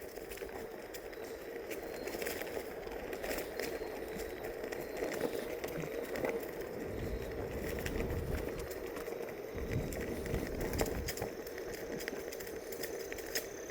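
Onewheel electric board riding along a path: a steady hum from the hub motor with tyre noise and scattered small crackles from the surface, and gusts of low wind rumble on the microphone in the middle.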